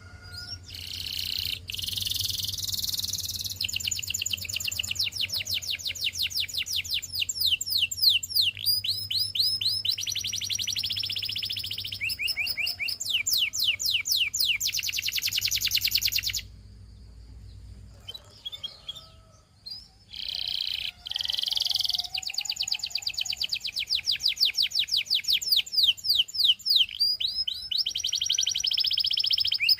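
Canary singing long runs of rapid repeated notes and trills, with a pause of a few seconds a little past halfway before the song starts again.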